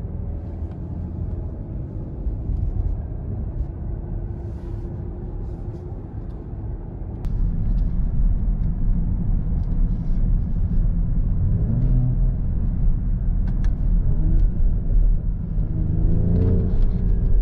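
The Mercedes-AMG GLE 53's 3.0-litre inline-six engine pulling the car along, with a deep road rumble underneath. About seven seconds in it gets louder as the car is driven harder, and the engine note rises briefly twice near the end as it picks up speed.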